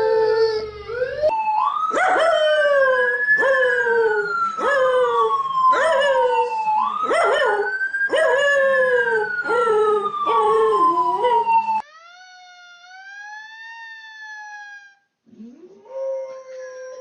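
An ambulance siren wailing, slowly rising and falling, while a dog joins in with a run of short, repeated falling howls, about one every second. About twelve seconds in it cuts to a quieter, lone dog howl that rises and holds, and another howl begins near the end.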